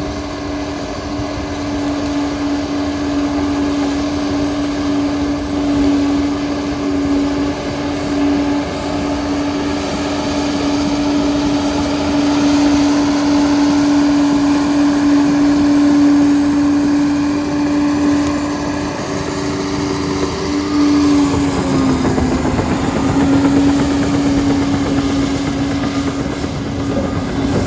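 Liebherr 746 crawler dozer running with a steady droning hum. About three-quarters of the way through, the drone dips slightly in pitch and a rough clattering noise rises over it.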